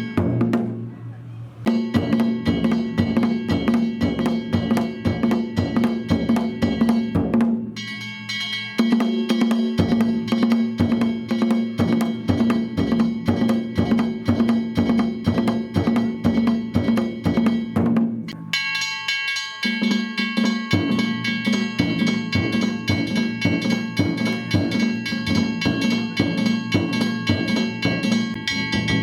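Danjiri float musicians (narimono) beating taiko drums in a fast, steady rhythm with clanging metal kane bells ringing over them. The playing drops away briefly three times, then comes straight back.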